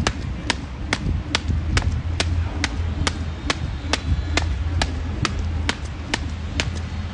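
Weighted 1 lb jump rope slapping the ground on each turn, a sharp even click a little over twice a second, over a steady low hum.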